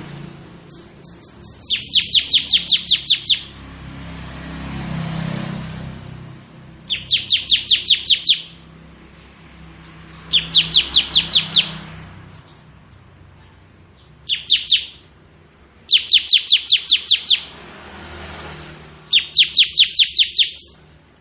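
Bar-winged prinia (ciblek) singing in rapid 'ngebren' bursts: six runs of fast, high, evenly repeated notes, each about a second and a half long, with a faint hiss in the pauses between them.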